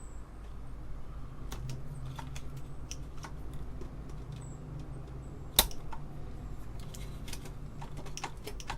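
Scattered small clicks and taps from handling an Apple II Plus keyboard assembly while working to release its parts. One sharp, louder click comes a little past halfway.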